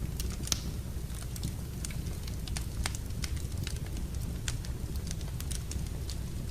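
Wood fire burning in a fireplace: a steady low rumble with irregular sharp crackles and pops, the loudest pop about half a second in.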